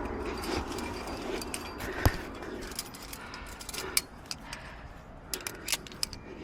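Irregular metallic clinks and jingles of climbing hardware, carabiners and gear knocking together, with one sharper knock about two seconds in.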